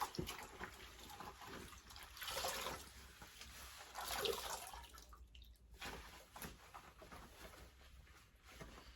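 Faint wet cleaning sounds: a damp rag rubbed over a washing machine, with water dripping, swelling briefly about two and four seconds in.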